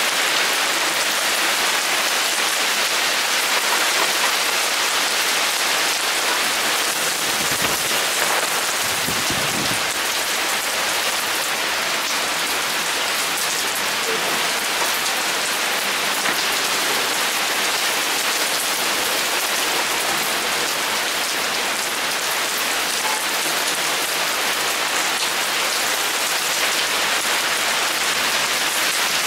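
Heavy rain pouring steadily in a thunderstorm downpour, an even hiss of drops on surfaces, with a brief low rumble about eight to ten seconds in.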